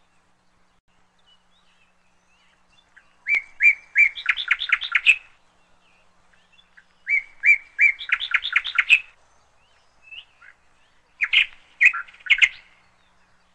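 A songbird singing: a few spaced notes that run into a quick trill of rising notes, each phrase about two seconds long, given twice; a shorter, broken phrase follows near the end.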